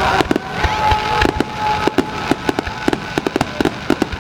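Fireworks finale: many shells bursting in quick, irregular succession, sharp bangs and crackles several a second over a continuous rumble, with a faint whistling tone held for about a second early in the barrage.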